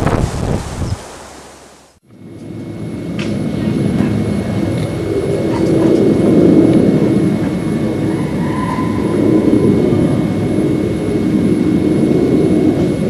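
Wind-like noise on the microphone that fades out and cuts off about two seconds in, then a steady, low engine-like rumble that swells toward the middle and eases off, like an aircraft or vehicle passing at a distance.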